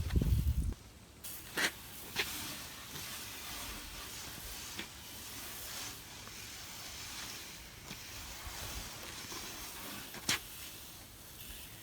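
Pump-up hand sprayer hissing as it mists liquid cleaner onto an aluminum boat, with a few short clicks and a low thump at the very start.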